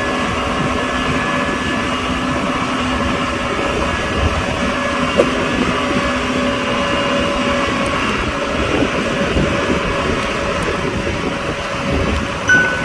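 Diesel engine of heavy construction equipment running steadily, with a short knock about five seconds in and a brief high tone near the end.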